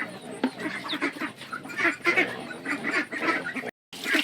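Ducks quacking repeatedly in a rapid series of short calls, cut off briefly near the end.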